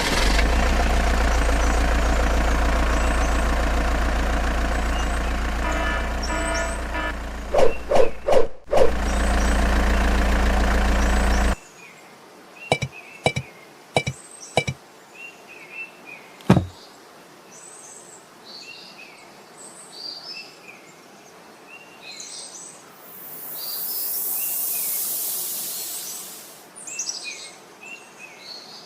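A vehicle motor running steadily with a few sharp knocks, cut off abruptly about 11 seconds in. Birds then chirp over scattered clicks, with a brief swelling hiss near the end.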